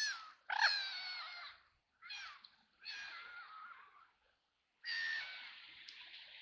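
Ducks quacking: several harsh calls, each under a second and falling slightly in pitch, with short gaps between them. From about five seconds in, a steady hiss of rain falling on the river takes over.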